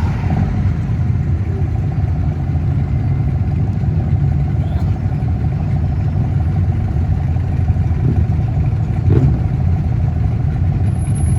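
Cars' engines running with a deep, steady rumble as they cruise slowly past, with a faint steady whine above it and one short knock about nine seconds in.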